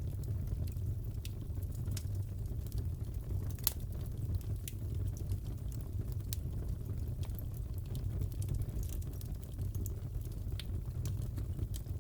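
Fireplace crackling: a steady low rumble of burning with scattered sharp pops and snaps of wood.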